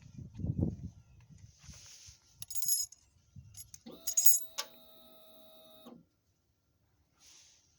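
Knocks and metallic clicks from handling the 2000 Honda RC51 before starting it, then a steady electric hum for about two seconds from about four seconds in, which stops suddenly.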